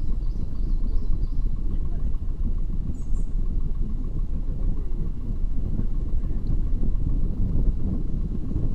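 A vehicle driving with a steady low rumble throughout, and a few faint high chirps about a second in.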